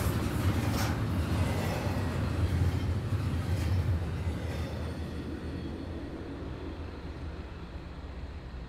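Canadian National double-stack container freight train rolling past on steel rails: a low rumble of wheels on track with a few sharp clanks, fading away over the last few seconds as the end of the train goes by.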